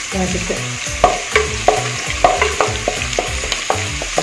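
Chopped ginger, garlic and curry leaves sizzling in hot coconut oil in a pan, stirred with a wooden spatula that knocks and scrapes against the pan several times from about a second in.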